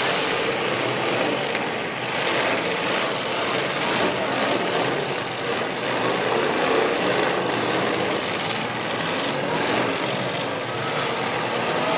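Demolition derby cars' engines running as the cars push against one another.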